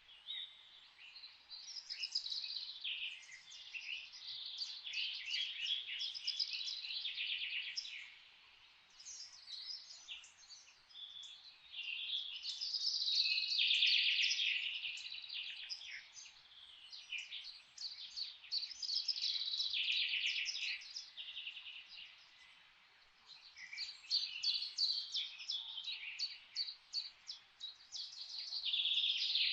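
Songbirds singing, with phrases of rapid chirps and trills a few seconds long, one after another with short pauses, over a faint steady hiss.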